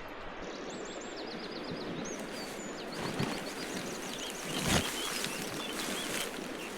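Small birds chirping and singing in quick, repeated high calls over a steady outdoor background hiss, with a soft thump about three seconds in and another near five.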